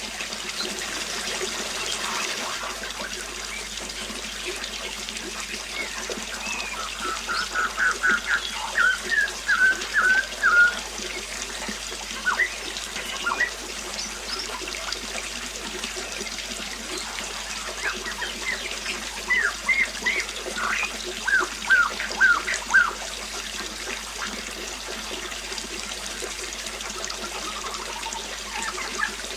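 Water trickling steadily while a bird sings two runs of quick, repeated chirping notes, one about a quarter of the way in and another a little past the middle.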